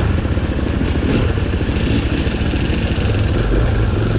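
Dirt bike engine running steadily, its rapid firing pulses heard as a fast throb.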